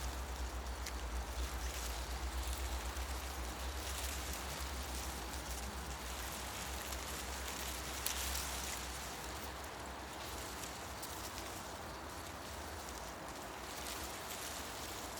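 Wind moving through forest trees, a steady rustle of leaves with faint light ticks, over a low rumble that is strongest for the first half and eases off about nine seconds in. A single sharp click about eight seconds in.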